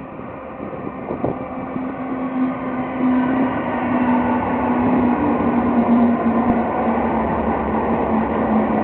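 BNSF intermodal train hauled by diesel locomotives rolling past. A steady engine drone sinks slightly in pitch over a broad rumble of wheels and cars, which grows louder about three seconds in.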